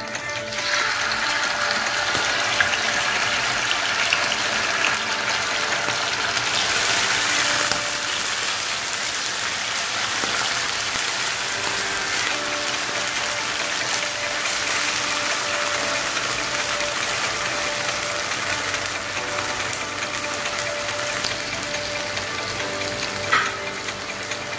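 Chicken breast frying in hot oil in a pan, a steady sizzle that grows louder for a moment about seven seconds in. A single sharp click comes near the end.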